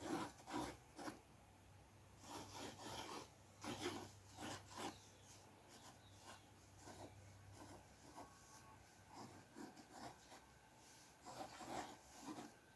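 Faint short scratchy strokes of a drawing tool on paper, in irregular bunches with pauses between them.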